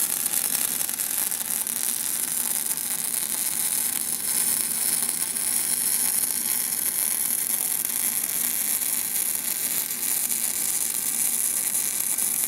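MIG welding arc running a bead with the welder turned up to its hottest setting, in spray transfer: a steady, even high hiss.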